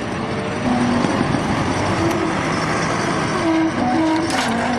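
Heavy vehicle engine running, with short whining tones that step up and down in pitch.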